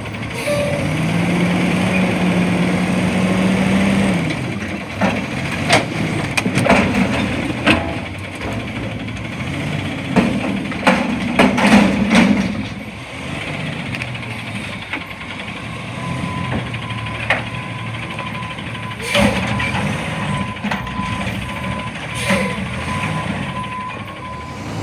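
CNG front-loader garbage truck revving its engine for a few seconds, then a series of loud metal clanks and bangs typical of a dumpster being lifted and emptied into the hopper. A steady high tone runs through the second half, with a few more knocks.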